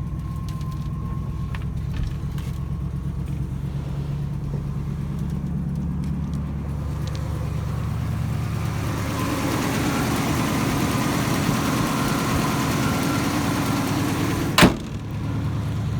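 1963 Ford F-250's 292 Y-block V8 running steadily just after a cold start, on part choke. From about halfway through, a hiss builds over the engine sound, and a single sharp knock comes near the end.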